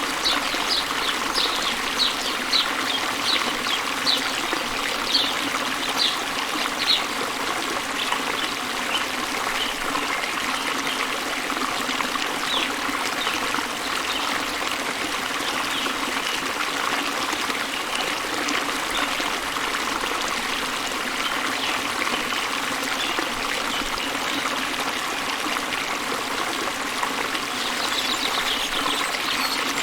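Small waterfall cascading into a river, a steady rushing and trickling of water. Over it come short high chirps, repeated about twice a second for the first seven seconds and again near the end, from a bird singing.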